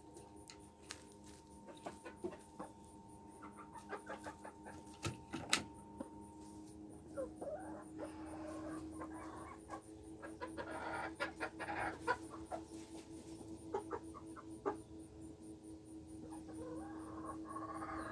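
Polish chickens clucking softly now and then, with scattered sharp clicks and a steady low hum underneath.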